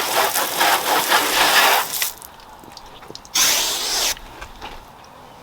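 Water spraying from a hose nozzle onto a car's paintwork, a steady hiss. It stops about two seconds in, then comes back for a short burst of under a second.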